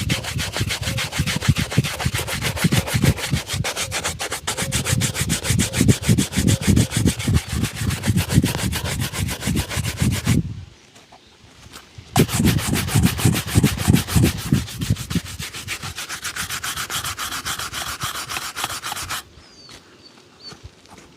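Leather shoe being buffed with rapid back-and-forth rubbing strokes during a polish shine. The strokes break off for about a second and a half around halfway, start again, and stop shortly before the end.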